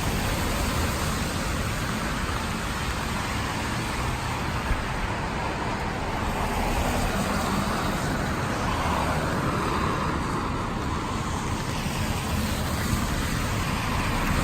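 Steady rain on a city street with car traffic passing on the wet road, a vehicle swelling louder and fading away about two-thirds of the way through.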